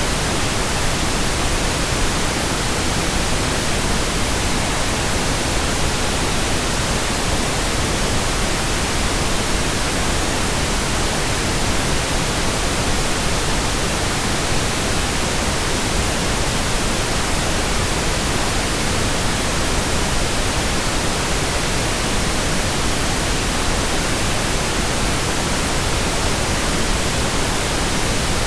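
Steady white noise: an even, unbroken hiss spread across all pitches, holding the same level throughout.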